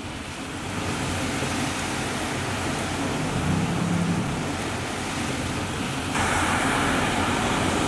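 Heavy rain pouring down steadily, with the hiss of car traffic on flooded streets. A faint low engine hum comes and goes near the middle, and the rushing grows suddenly louder about six seconds in.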